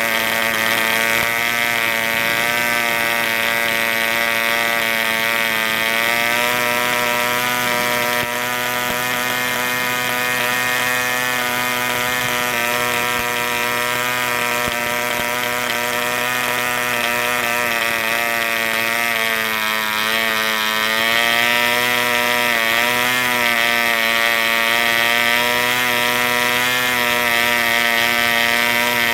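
RGU 2.5 cc two-stroke model diesel engine running steadily at high speed, its pitch wavering and dipping briefly about twenty seconds in before steadying again.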